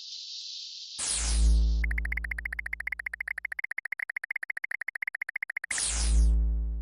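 Synthesized electronic sound effects: a steady high hiss, then a deep boom with a falling sweep, a rapid high beeping trill of about a dozen pulses a second for several seconds, and a second deep boom with a falling sweep near the end.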